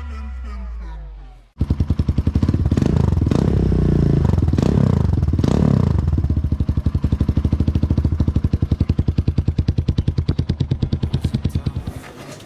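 Motorcycle engine running through its exhaust with a loud, rapid, even pulsing beat; it is revved a few times between about three and six seconds in, then settles back to idle and fades near the end.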